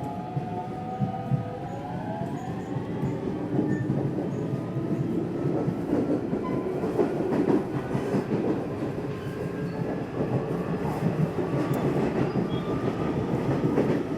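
Nishitetsu electric train running, heard from inside the carriage: a motor whine that climbs in pitch in the first couple of seconds, then steady rumble with wheel clatter over the rails that grows slowly louder as the train picks up speed.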